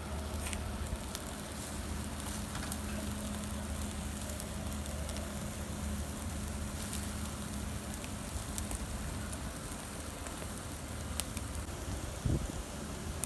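Barbecue fire crackling with scattered sharp pops as kebab meat sizzles over it. A low steady hum runs underneath and fades out after about nine seconds.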